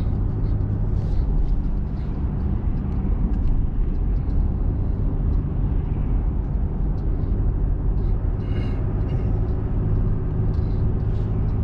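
Steady engine and road noise of a small truck being driven at low town speed, heard from inside the cab.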